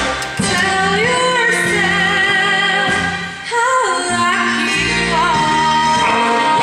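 A female voice singing a musical-theatre song over instrumental accompaniment, settling into a long held note near the end.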